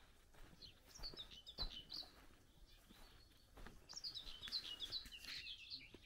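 A small songbird singing two quick runs of high chirping notes, the first about half a second in and a longer one near four seconds in, faint, with a soft knock about a second and a half in.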